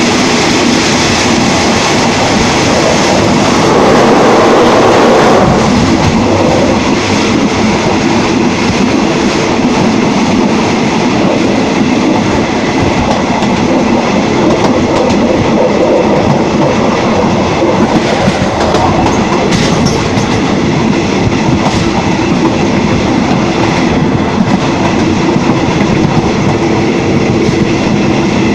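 Moving train heard from inside a passenger carriage: the steady noise of the wheels running on the rails, with a few scattered clicks. It swells louder for a second or two about four seconds in.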